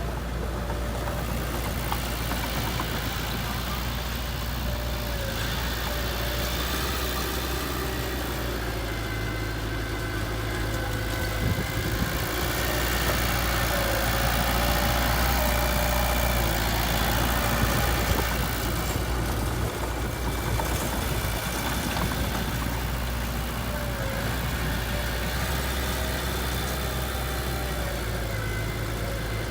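Heavy diesel engine of earthmoving equipment running steadily near idle, getting somewhat louder for a few seconds around the middle.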